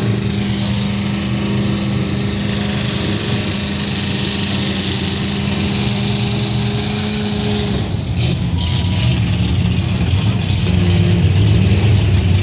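Off-road truck engine held at steady high revs, dropping to a lower, rougher note about eight seconds in.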